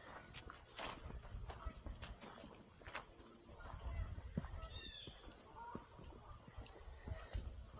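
A continuous high, steady insect chorus, like crickets, with irregular soft footsteps on a path and a few short chirps about five seconds in.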